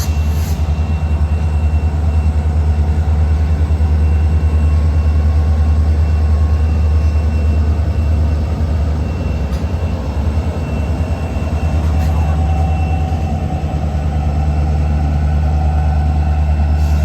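Diesel engines of a pair of EMD Geep locomotives working hard under load, a loud steady low drone as they shove a long cut of cars.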